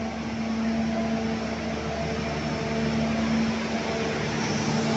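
Steady mechanical rumble and hum of the Pangrango passenger train, heard from the carriage: a constant low drone over even noise, growing gradually louder.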